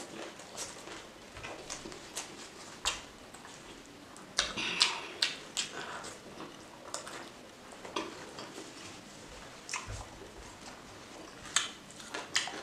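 Close-up eating sounds: chewing and wet mouth clicks and smacks while rice and pork curry are eaten by hand, with fingers mixing the rice on a banana leaf. The clicks are scattered and grow louder in a cluster about four to five seconds in.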